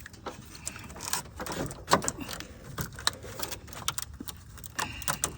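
Irregular metallic clicks, clinks and knocks of tools and parts being handled in a car's engine bay.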